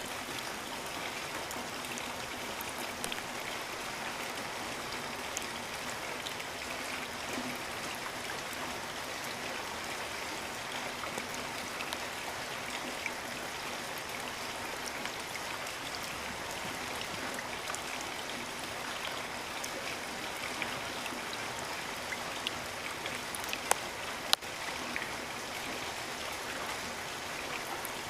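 Steady rain falling, an even hiss with scattered drops ticking close by, and two sharper drop hits about three-quarters of the way through.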